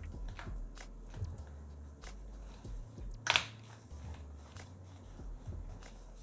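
Sony WH-1000XM4 headphones being handled as their ear cups are swivelled and folded: soft plastic rustles and scattered clicks, with one louder click about three seconds in, over a steady low hum.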